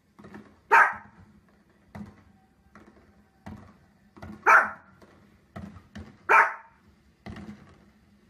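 A dog barking: three loud, sharp barks, about a second in, near the middle and a couple of seconds later, with fainter short sounds between them.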